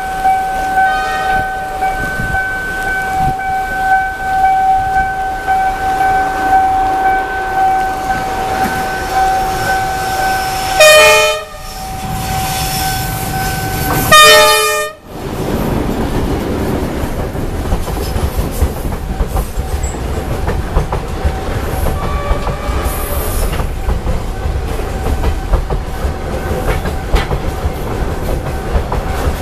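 Diesel locomotive hauling a freight train over a level crossing: a steady high warning tone sounds for about eleven seconds, then the locomotive's horn blasts twice, about three seconds apart. The boxcars then pass close by with a steady rumble and clickety-clack of wheels over the rail joints.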